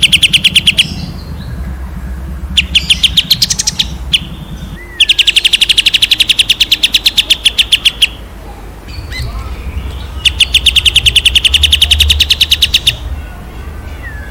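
A songbird delivering rapid trills ('tembakan'): fast, evenly repeated notes at about a dozen a second, in four bursts, the longest about three seconds, over a low steady hum.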